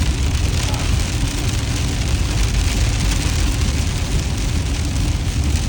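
Steady noise inside a moving car: low road and engine rumble, with rain hitting the car.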